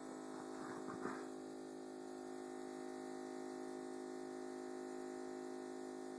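Thermador KBUIT4865E05 48-inch built-in refrigerator giving off a steady hum made of several constant tones, with a brief scuff about a second in. The owner calls it a really loud noise and does not think the new fridge is supposed to make it.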